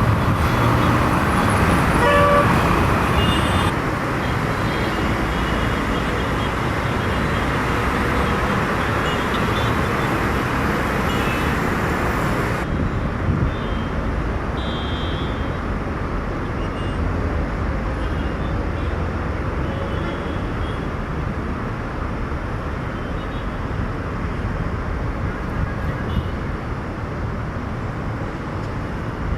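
Steady road traffic noise with a few short vehicle horn toots.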